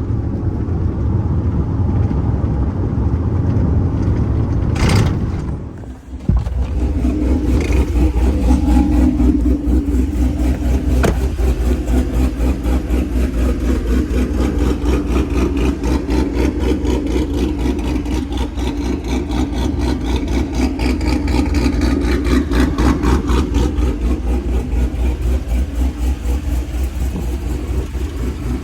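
Pickup truck engine running, dropping away briefly about six seconds in, then starting up again and settling into a loud, evenly pulsing idle.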